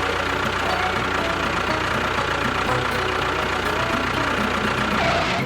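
An engine running steadily at a constant speed, then cutting off suddenly at the end.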